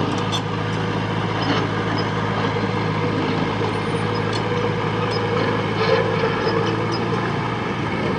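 A heavy diesel engine of the bulldozer or dump truck running steadily, with a few light clicks over it.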